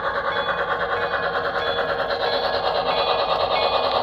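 Custom-built brass model steam locomotive running on layout track: a steady mechanical whir of the motor and gearing, with its wheels rolling on the rails.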